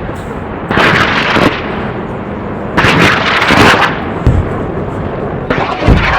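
Gunfire and explosions over a continuous rumbling din, with louder bursts about a second in and around three seconds in, and deep booms just past four seconds and near the end.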